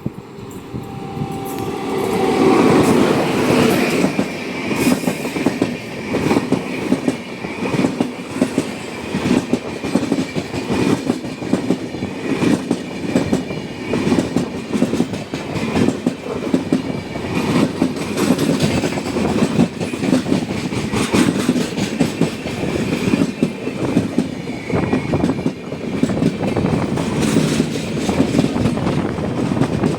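Train passing at speed: wheels clattering over rail joints, building up over the first couple of seconds and then continuing steadily.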